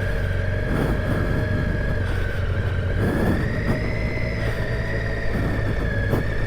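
Triumph Tiger 800 XCa's three-cylinder engine running at steady low revs as the bike crawls over loose ground, its pitch rising slightly about two thirds of the way through. A few brief knocks are heard along the way.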